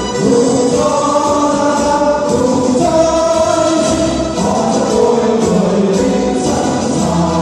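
Music: a choir singing, holding long notes that change pitch every second or so.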